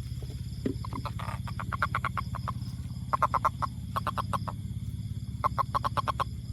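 A toad calling in three bouts of quick, evenly spaced pulses, about eight to ten a second, each bout lasting roughly a second, over a steady low hum.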